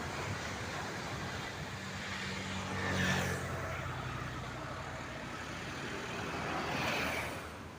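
Sea waves and wind washing steadily, with a low engine hum underneath that is clearest in the first half. The surf swells twice, about three seconds in and near the end.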